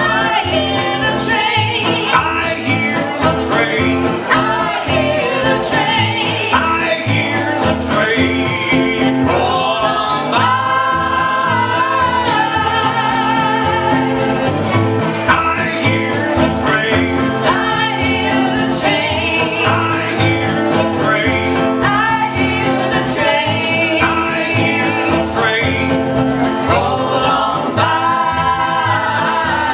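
A song with singing over string accompaniment, in a country or bluegrass style, played without a break.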